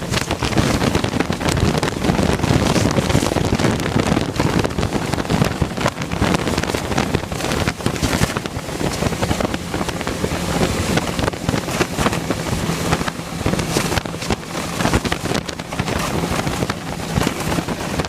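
Wind buffeting the microphone in uneven gusts, with a faint steady low hum underneath.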